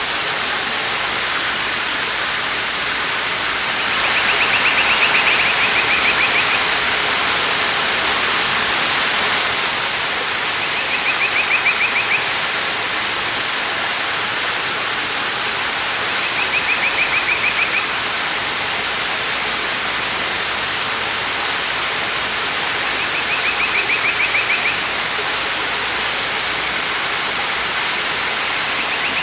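A waterfall rushing in a steady, full hiss. A short, rapid, buzzy trill sounds over it about every six seconds, five times.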